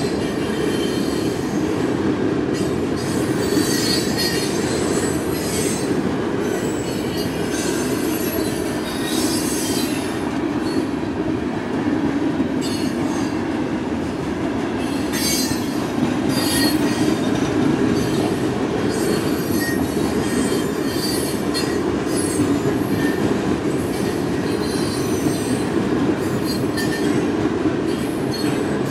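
Coal train's hopper cars rolling past: a steady rumble of steel wheels on rail, with high wheel squeal coming and going.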